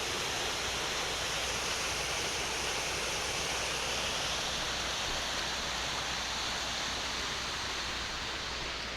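Steady rushing of a waterfall tumbling down its rocky drops.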